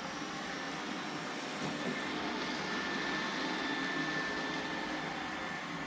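Roomba robot vacuum running, a steady whirring hum with a thin high whine.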